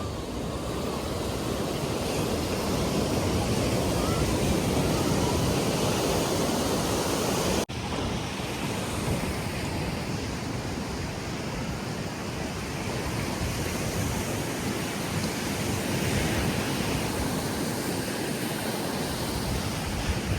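Sea waves washing onto a beach, a steady rush of surf that swells and eases, with a momentary dropout about eight seconds in.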